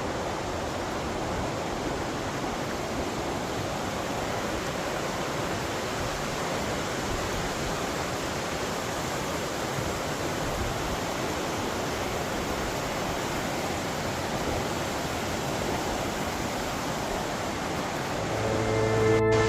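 Steady rush of a waterfall carrying a heavy flow of water. Music comes in near the end.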